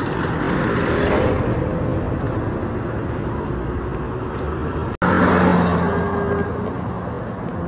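Road traffic: cars passing close by with a steady rush of engine and tyre noise. Vehicles pass louder about a second in and again about five seconds in, where the sound cuts out for an instant and comes back louder.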